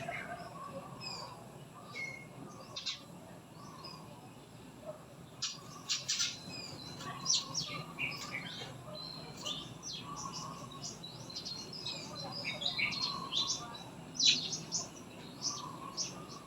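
Small birds chirping: many quick, high chirps and short falling notes, busiest from about five seconds in to near the end.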